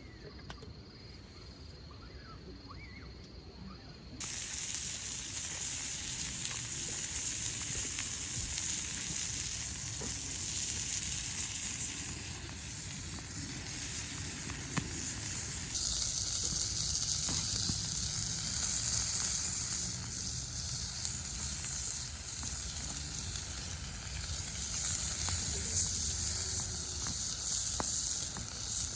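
Food sizzling in a frying pan, a steady hiss with small crackles, starting abruptly about four seconds in. Before that it is quiet apart from a faint steady insect trill.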